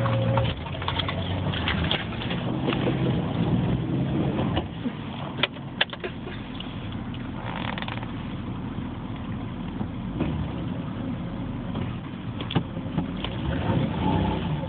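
Jeep Wrangler TJ engine running at low speed in four-wheel drive, with a couple of sharp knocks about five and a half seconds in and another about twelve seconds in.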